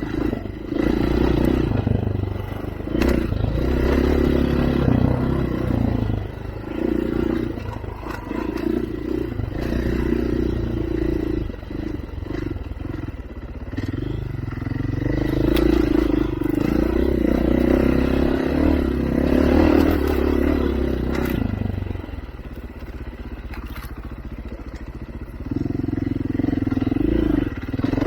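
Off-road vehicle engine running under load on a rough dirt trail, its revs rising and falling, with scattered knocks and clatter. It eases off for a few seconds near the end, then picks up again.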